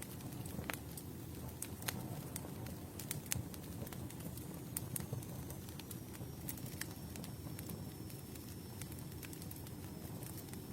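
Campfire burning: a steady low rush of flames with sharp, irregular crackles and pops from the wood, and a faint, thin high whistle through the second half.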